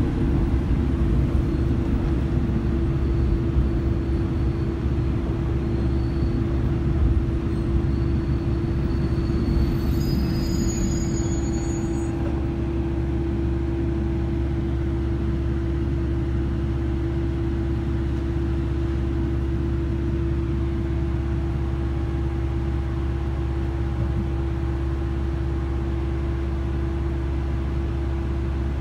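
Inside a JR Kyushu local train car: a steady hum carrying one constant tone. The train's running noise is rougher and uneven for the first dozen seconds or so, then settles to an even hum.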